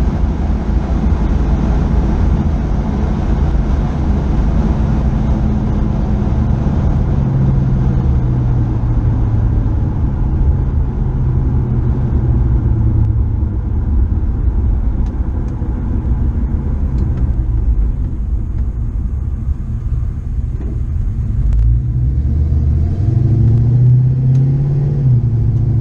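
Car engine and road noise heard from inside the car at a steady cruise. Near the end the engine note drops and quietens as the car slows, then rises again in the last few seconds as it picks up speed.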